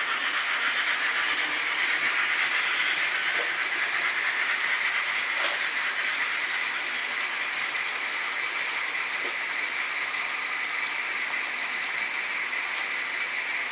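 H0-scale model trains running on a layout: a steady whirr of small motors and wheels on the track. There is a single sharp click about five and a half seconds in.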